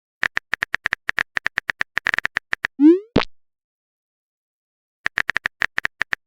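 Chat-app sound effects: a quick run of electronic typing ticks, about eight a second, then a short rising 'message sent' blip about three seconds in, and a second, shorter burst of typing ticks near the end.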